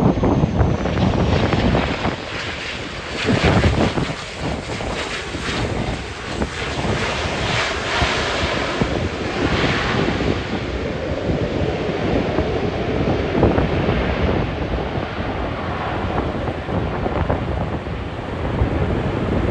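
Strong gusty wind buffeting the microphone, with an aircraft's engines sounding beneath it. A faint high whine falls slowly in pitch in the first couple of seconds.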